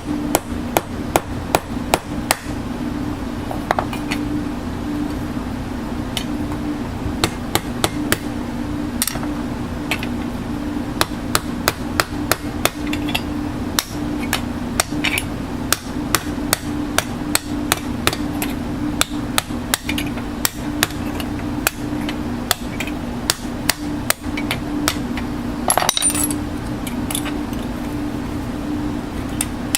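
A hammer striking metal over and over in irregular runs of quick blows, about two a second at their fastest, over a steady hum. Near the end a brief, harsher scraping noise breaks in.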